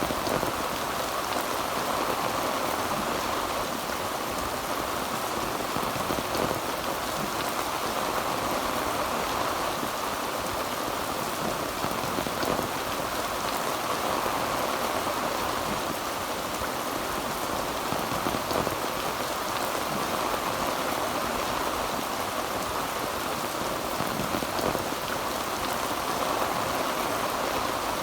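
Heavy rain falling steadily on a tin roof: a dense, even patter of drops.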